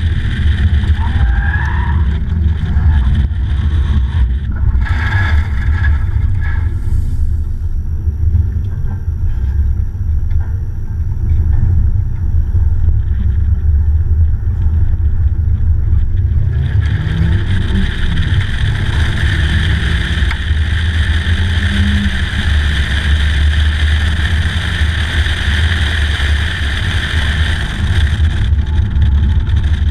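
Stock 2003 Mazda Miata's 1.8-litre four-cylinder engine running on track, under heavy wind noise on the microphone in the open cockpit. About halfway through, a louder hiss of wind and road noise comes in, and the engine's pitch rises and falls a few times.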